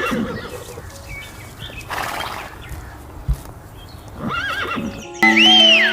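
An animal call with quickly rising-and-falling pitch at the start and again about four seconds in, with music starting in the last second.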